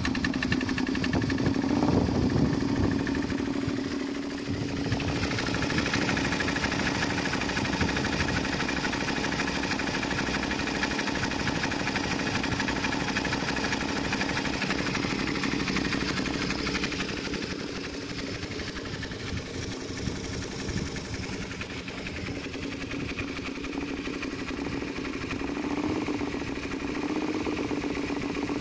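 Suzuki SV650's V-twin engine idling steadily on a cold engine just after starting, a little louder in the first few seconds.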